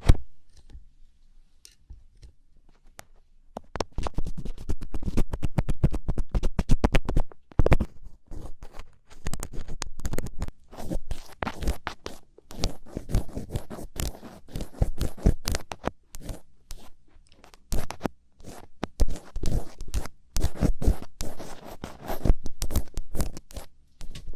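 A thin ear pick scraping and scratching close to the microphone in ear-cleaning ASMR, in quick runs of short strokes. After a click at the start and a few nearly quiet seconds, a dense burst of strokes starts about four seconds in, followed by shorter bursts to the end.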